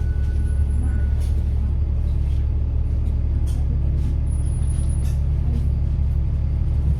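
A bus's diesel engine running steadily, heard from on board as a strong low drone with rattles from the body, and a thin high turbo whine coming and going.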